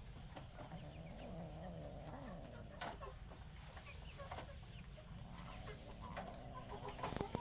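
Chickens clucking softly on and off, with a few faint ticks over a steady low background hum.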